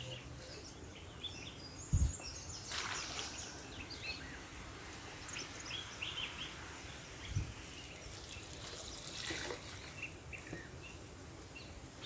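Birds chirping in short, scattered calls over a faint steady background, with two brief low thumps, one about two seconds in and one past seven seconds.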